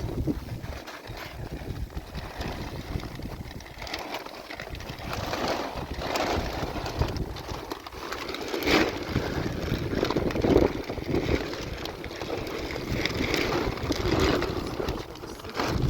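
Wind buffeting the microphone in a snowstorm, a low rumble, with irregular rustling and knocking that grows louder from about five seconds in.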